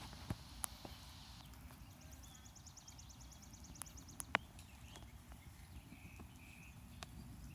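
Outdoor ambience: a low steady rumble with scattered sharp clicks, and a quick high-pitched ticking trill starting about two seconds in and lasting over a second.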